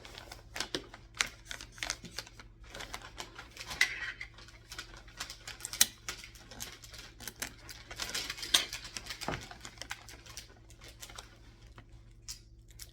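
Christmas gift wrapping paper being handled and folded: a run of irregular light taps, clicks and paper rustles.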